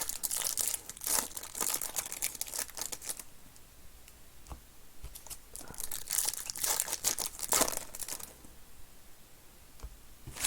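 Trading card pack wrappers being torn open and crinkled by hand, in two spells of rustling with quieter handling between.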